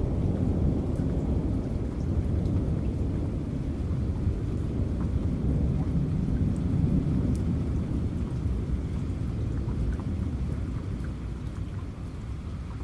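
Low rumble of rolling thunder over steady rain, with scattered raindrop ticks; the rumble slowly dies away toward the end.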